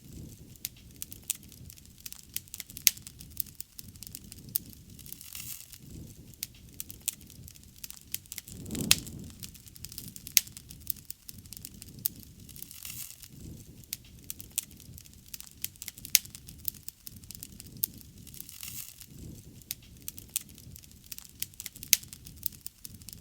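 Wood bonfire crackling, with frequent irregular sharp pops over a low steady rush of flame. There is a brief louder surge about nine seconds in.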